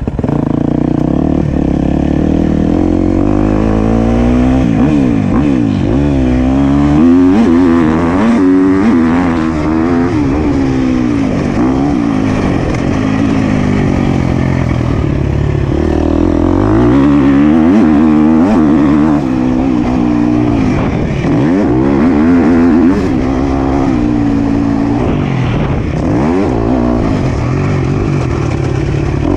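Motocross bike engine being ridden hard, its revs rising and falling over and over as the throttle is opened and closed.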